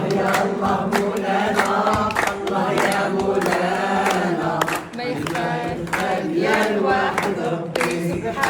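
A group of people singing together in chorus inside a deep limestone cave, with sharp beats keeping time.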